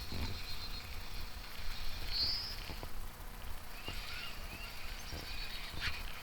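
Outdoor ambience by a pond: a steady low wind rumble on the microphone under a steady high-pitched hiss, with a short high chirp about two seconds in and a few small chirps near the middle.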